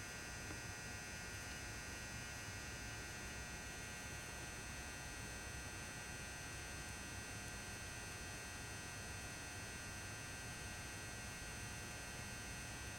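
400-watt mercury vapour high bay lamp's ballast humming steadily, with thin constant high-pitched whining tones above the hum.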